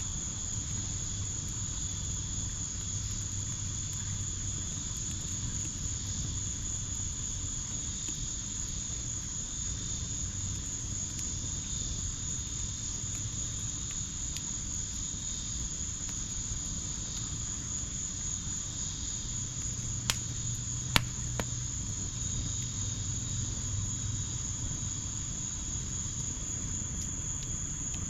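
Steady chorus of crickets, a continuous high trill, over a backyard wood fire. About two-thirds of the way through, the fire gives three sharp pops in quick succession.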